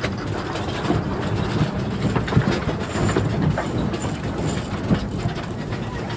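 Wind buffeting the microphone aboard a sailboat under way, a steady rushing rumble with irregular clicks and knocks throughout.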